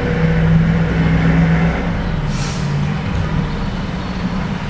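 Steady low hum of a car idling, heard from inside the cabin, with a short hiss about halfway through.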